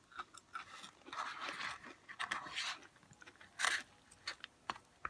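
A person biting and chewing crunchy food close to the microphone: a run of irregular crisp crunches.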